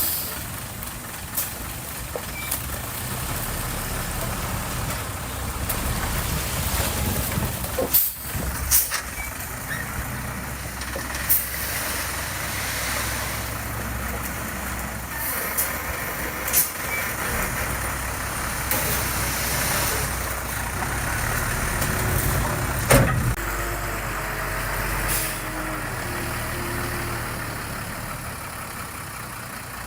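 Diesel engine of heavy earthmoving machinery running steadily, with several sharp metallic knocks and clanks, the loudest about two-thirds of the way through.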